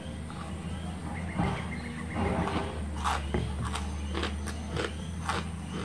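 Close-up chewing of a mouthful of chocolate spread with crispy rice cereal: wet crunching, with a run of sharper crunches about two a second from about three seconds in.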